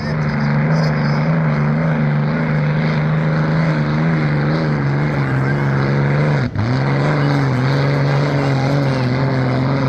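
Rolls-Royce Merlin V12 of a vintage unlimited hydroplane, straight-piped, running loud and steady at a near-constant pitch. About six and a half seconds in there is a brief sharp drop before the note picks up again.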